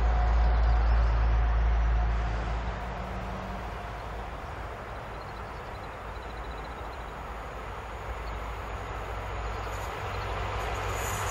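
Electric freight train approaching, hauled by a Fret Prima locomotive; its rumble and rail noise build up again toward the end. A heavy low rumble at the start dies away after about two seconds.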